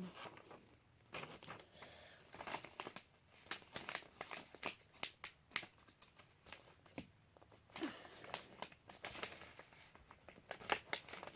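A sheet of paper being unfolded, refolded and creased by hand, crinkling in short, irregular rustles.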